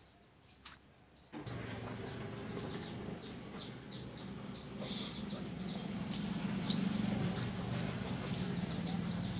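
Birds chirping rapidly in short, high, falling notes over a steady low hum, both coming in suddenly about a second and a half in.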